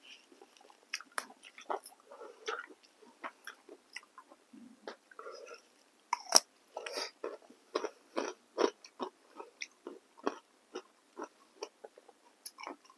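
Close-up eating sounds: crunchy bites into fresh cucumber slices and chewing, with irregular sharp crunches and wet mouth clicks, the loudest crunch about six and a half seconds in.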